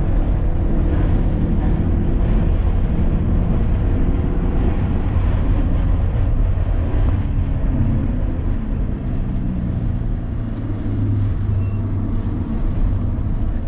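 Subaru BRZ's 2.0-litre flat-four engine pulling hard on a racetrack, its pitch held high, then falling lower about eight seconds in before rising again near the end, with road and wind noise underneath.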